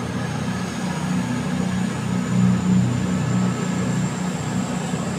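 CrossCountry Voyager diesel multiple unit pulling away, its underfloor diesel engines running under power. A thin high whine rises slowly in pitch as the train gathers speed.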